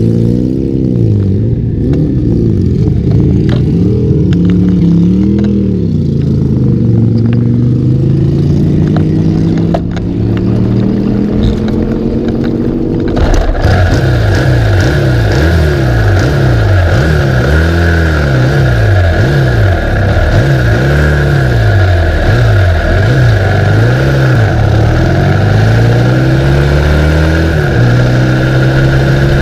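1972 Norton 750 short-stroke parallel-twin race engine revving up and down repeatedly, its pitch rising and falling about once a second in the later part. The sound changes abruptly about thirteen seconds in.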